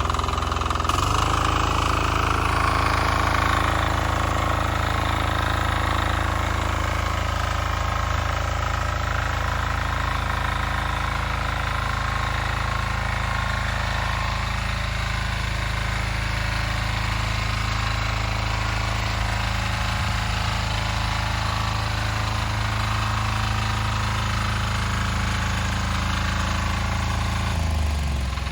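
Weima diesel walk-behind tractor's single-cylinder engine running steadily under tilling load with a hard, knocking diesel rhythm. About a second in its note rises, and near the end the revs fall away.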